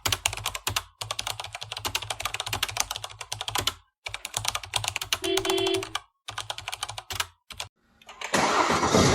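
Rapid, irregular clicking like keyboard typing, in several runs broken by short pauses, with a brief beep about five seconds in. About a second before the end a car engine starts up and runs loudly.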